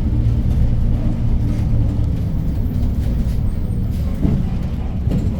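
A 2015 Hyundai New Super Aerocity city bus with a CNG engine, driving, heard from inside the cabin as a steady low rumble of engine and road noise.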